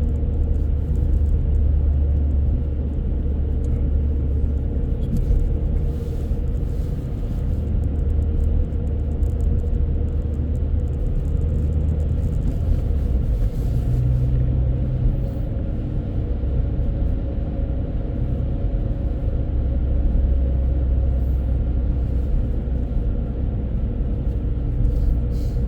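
Car interior noise while driving: a steady low rumble of engine and tyres on the road, heard inside the cabin.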